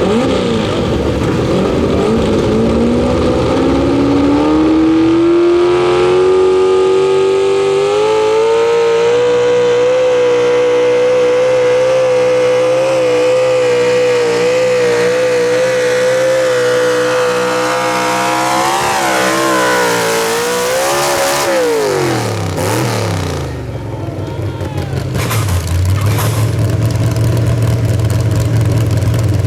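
Pro Stock mini truck engine at full throttle on a pull: the revs climb steadily, hold high, waver briefly, then drop sharply as the throttle comes off. It settles to a lower, steady run near the end.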